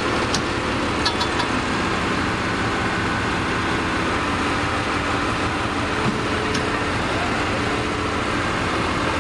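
Heavy diesel engine idling steadily, with a few sharp metallic clicks and knocks over it.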